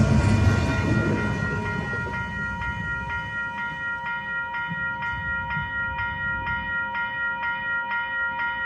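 Railroad crossing bell ringing in a fast, even series of dings, while the low rumble of the passing train fades away over the first couple of seconds.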